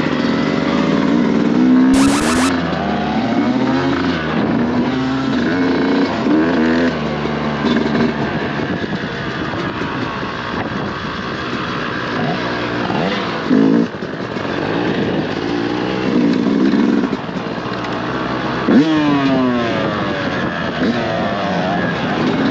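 Dirt bike engine being ridden, its pitch rising and falling again and again with throttle and gear changes. A brief burst of hiss comes about two seconds in.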